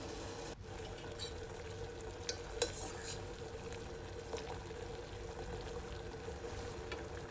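Sugar syrup simmering in a pan with lemon juice just stirred in, a steady soft bubbling hiss under a faint steady hum. A couple of light clicks about two and a half seconds in.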